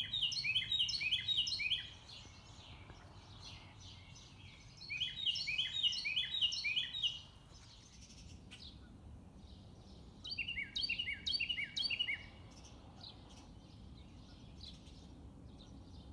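Carolina wren singing: three bouts of song, each about two seconds of one quick phrase repeated over and over, with about three seconds of pause between bouts.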